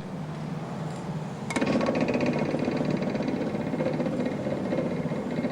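Belt-driven tail hammer of a scythe forge, its upper saddle beating on the lower saddle. A quieter steady machine noise comes first; about a second and a half in, loud, rapid, even blows start abruptly and carry on steadily.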